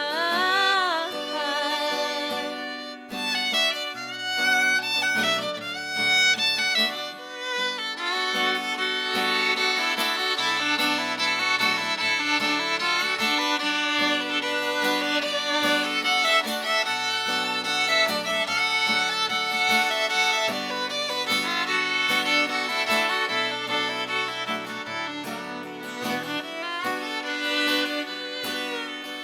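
Fiddle taking an instrumental solo over strummed acoustic guitar accompaniment, a mid-song break between sung choruses.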